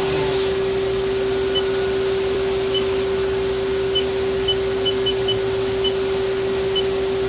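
Haas SL20 CNC lathe running with a steady hum and hiss, with about ten short, high beeps at irregular intervals.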